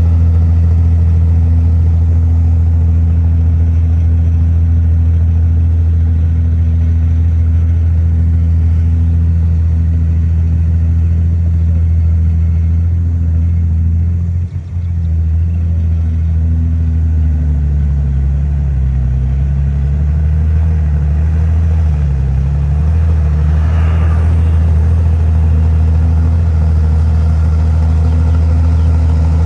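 Heavy diesel engine of earthmoving machinery running steadily, with the pitch wavering up and down for several seconds in the second half as the load changes. There is a momentary drop in level about halfway through.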